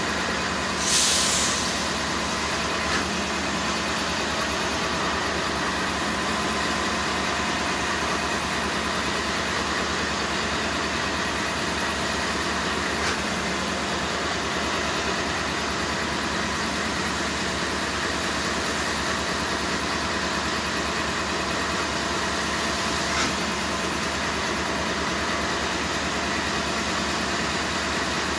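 Diesel freight locomotive engine idling steadily, with a short hiss of air about a second in.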